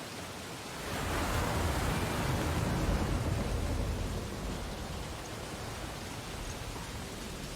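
Ocean waves washing onto a beach: one wave breaks and surges about a second in, peaks, then slowly recedes into a steady hiss of surf.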